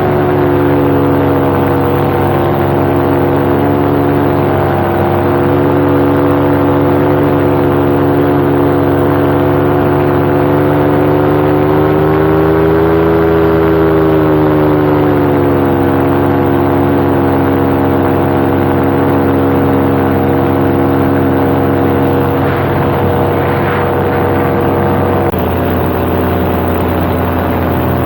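Paramotor engine and propeller running steadily in flight, its pitch rising a little in the middle and then easing back. Near the end the engine note changes abruptly to a lower sound.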